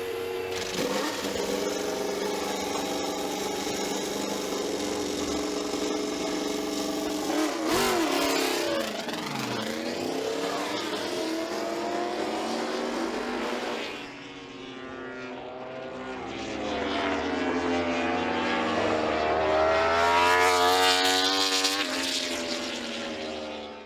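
Suzuki GSX-RR MotoGP race bike's inline-four engine running at high revs on track. The note sweeps down and back up about a third of the way in as the bike passes, then climbs in repeated rising runs near the end as it accelerates.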